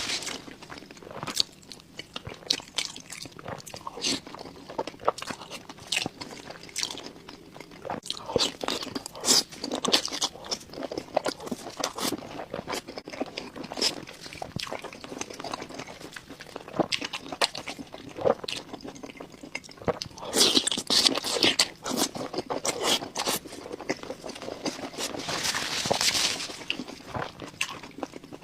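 Close-miked eating: biting, crunching and chewing in quick, irregular crackles, with a few louder crunchy stretches.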